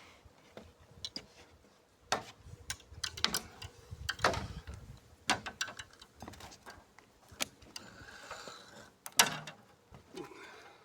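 Fishing reel being wound in to retrieve a float and cage-feeder rig, its gears clicking, with irregular knocks and clicks from handling the tackle.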